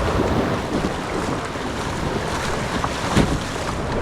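Wind buffeting the microphone over surf washing on the shore, with a sharp knock about three seconds in.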